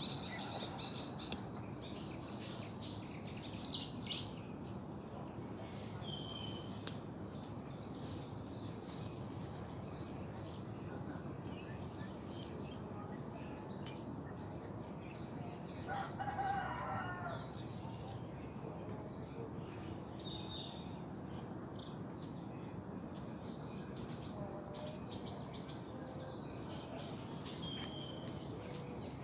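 Rural outdoor ambience: a steady high insect drone, a few short rapid high-pitched bird trills, and one rooster crow about halfway through.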